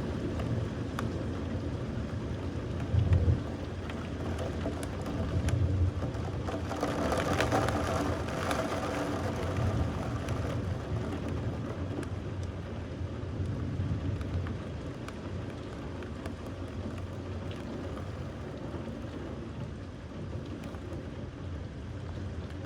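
Steady rain with low rumbles of thunder; the loudest is a short rumble about three seconds in.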